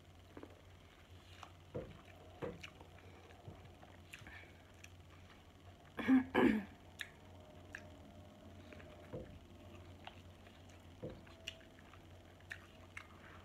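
Close-miked chewing and biting of corn on the cob, with scattered small wet mouth clicks. A louder short throat sound comes about six seconds in.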